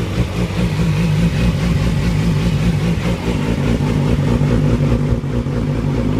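2006 Yamaha R6's inline-four engine idling through a Toce aftermarket exhaust, running steadily with a slight waver in pitch.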